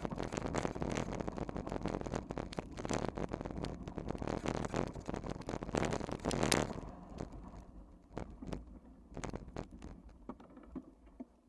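Wind rush and rattling clicks from a bike riding over rough ground. About seven seconds in the noise drops off sharply, leaving scattered clicks and knocks.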